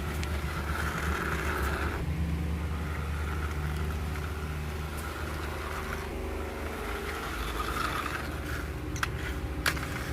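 A steady low hum with background noise, and two sharp clicks near the end.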